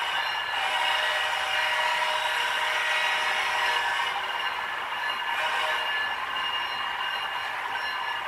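H0-scale model train running on the layout track: a steady whirring, rolling sound of the model's wheels and motor, with a few steady high tones.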